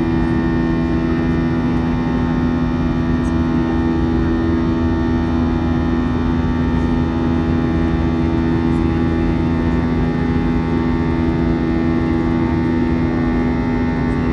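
Airbus A321 jet engines droning steadily, heard from inside the passenger cabin, with a constant hum holding several steady tones over a low rumble.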